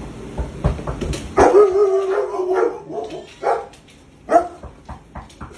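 Dog barking: one drawn-out, wavering bark followed by two short barks, as visitors arrive.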